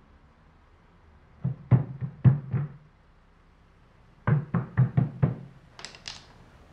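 Dull knocking thuds, an uneven group of four and then an even run of five at about four a second. Two short, higher, hissing noises follow near the end.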